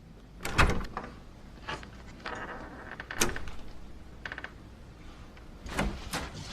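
A series of knocks and sharp clicks from a small mechanism, with two short rattles in between. The loudest knock comes about half a second in.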